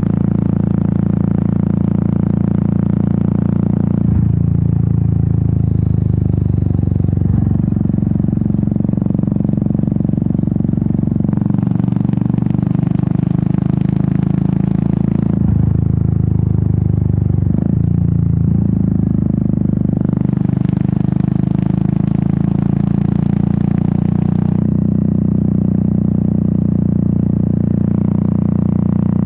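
Royal Enfield Meteor 350's single-cylinder engine and exhaust running at low town speed. Its note shifts several times as the revs change. A hiss rises twice, for about four seconds each time.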